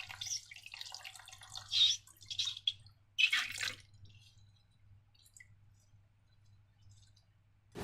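Slime being handled: a run of small, wet, sticky crackles, then a few louder squishes up to about four seconds in, after which it goes nearly quiet.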